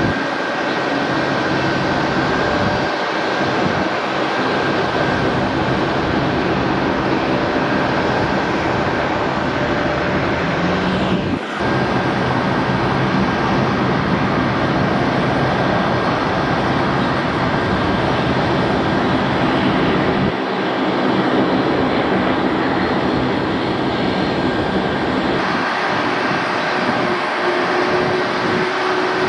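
Airliner engines running loud and steady: a wide rush of noise with a steady high whine over it, briefly dipping about eleven seconds in.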